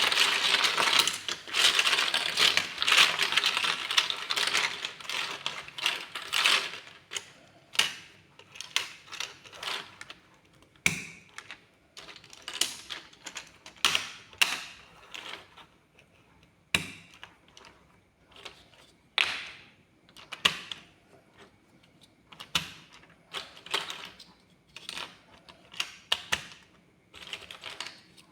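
Plastic building-block pieces being handled and clicked together. A dense clatter of many pieces for about the first six seconds, then separate sharp clicks at irregular spacing.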